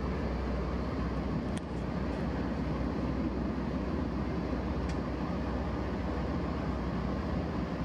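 Steady rumble and rush of a moving passenger train, heard from inside the carriage, with two faint clicks.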